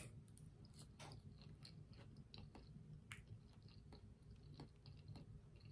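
Faint chewing of a mouthful of soft homemade French fries, heard as scattered small wet mouth clicks, with no crunch to them.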